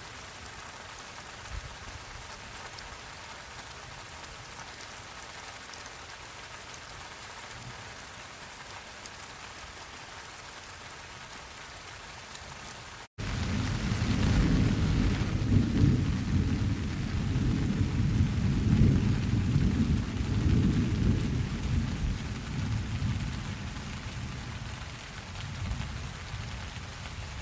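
Steady rain falling, then about halfway through a momentary dropout followed by a long, deep roll of thunder that builds over a few seconds and slowly fades as the rain goes on.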